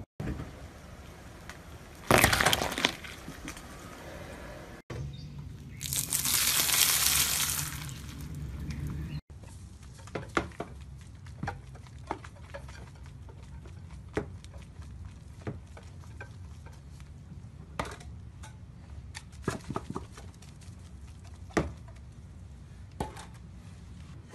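Soap and sponge bars being crushed under a car tyre in a string of short clips: a loud crunch about two seconds in, a longer crackling rush a few seconds later, then scattered small cracks and ticks.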